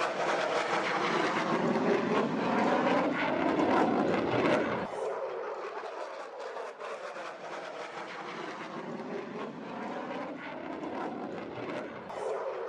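Aircraft flying past with a steady rushing noise whose pitch sweeps as it passes. About five seconds in it drops off suddenly to a quieter aircraft pass with the same sweeping sound.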